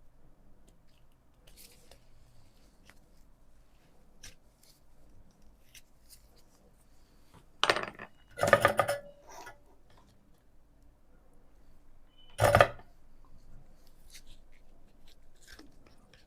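Small hard objects handled on a work surface: faint ticks and light handling throughout, with three short, louder clatters, two close together around the middle and one more a few seconds later.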